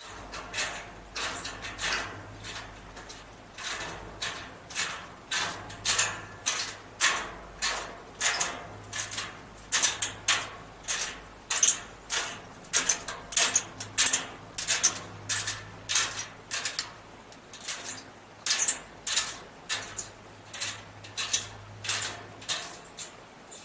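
Hiking footsteps crunching in snow, a steady walking pace of about two steps a second, over a faint low hum.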